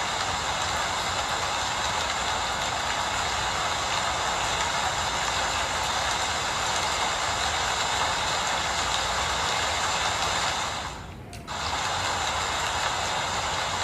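Steady, dense rainfall with a continuous crackle of drops, dipping briefly for under a second about eleven seconds in.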